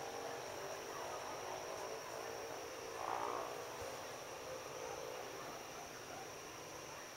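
Steady background hum with a thin, high, constant whine, and a brief faint swell about three seconds in; no thunderclap or sudden loud sound.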